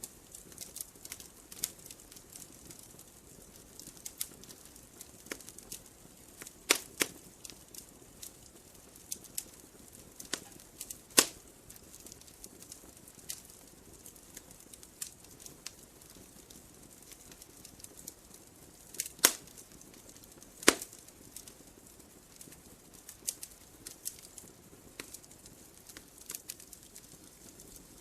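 Fireplace fire crackling, with irregular sharp snaps and pops over a faint steady hiss; a few louder pops stand out about 7, 11, 19 and 21 seconds in.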